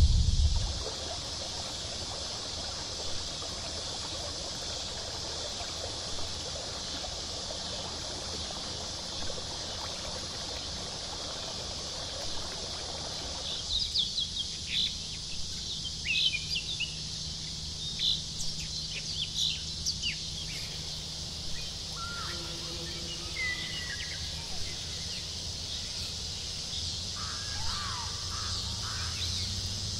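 Outdoor nature ambience: a steady high hiss, with scattered short, high-pitched chirps starting about halfway through and a few lower whistled calls near the end.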